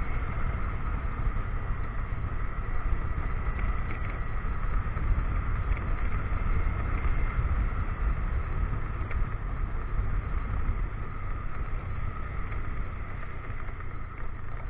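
Motorcycle engine running steadily while riding, with wind rushing over the action camera's microphone.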